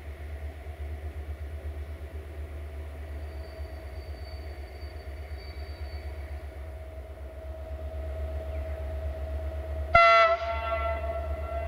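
Diesel train running with a steady low engine rumble. About ten seconds in, a loud train horn blast starts suddenly and carries on.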